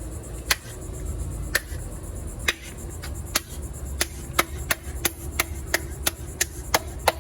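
A series of sharp snaps or taps, about one a second at first, then quickening to about three a second a little past halfway, over a low steady rumble.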